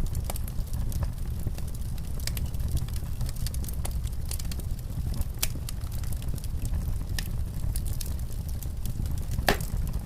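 Wood fire crackling in a fireplace, with scattered sharp pops over a steady low rumble and one louder pop near the end.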